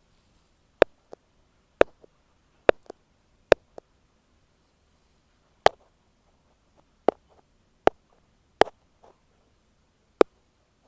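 An ear pick tapping directly on an earphone microphone: about nine sharp, single taps spaced irregularly around a second apart, with a longer gap in the middle. A few taps are followed by a softer second knock.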